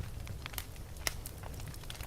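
Wood fire in a fireplace crackling, with scattered sharp pops, the strongest about a second in, over a low steady rumble.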